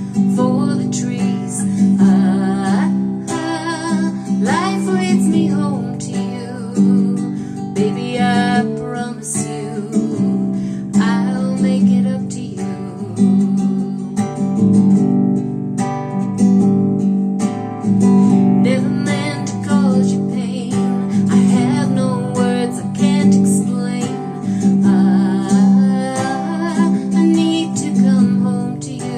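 A woman singing over a strummed acoustic guitar, her voice held in long notes with vibrato.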